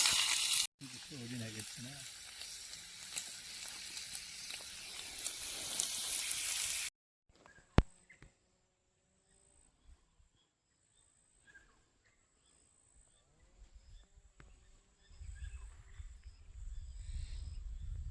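Food sizzling as it fries in a pan over a campfire for about six seconds, then cutting off abruptly. After that it is nearly silent: a faint steady high tone, a few faint chirps, and a low rumble coming in near the end.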